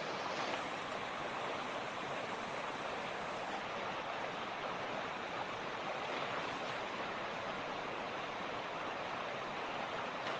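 A mountain creek rushing steadily, an even, unbroken wash of running water.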